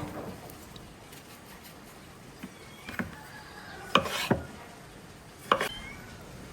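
Several short clinks and knocks of hard objects, some ringing briefly: about three and four seconds in (a close pair), and again near five and a half seconds.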